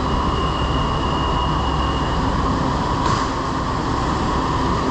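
Bangkok MRT subway train running, heard from inside the carriage: a steady rumble and hiss, with a thin high whine for the first two seconds and a short hiss about three seconds in.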